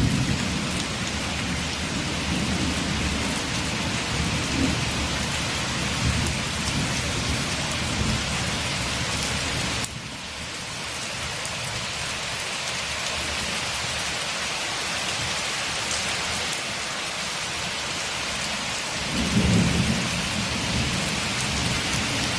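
Steady rain falling as an even hiss. Low thunder rumbles under it at the start, fades out about halfway, and swells again near the end.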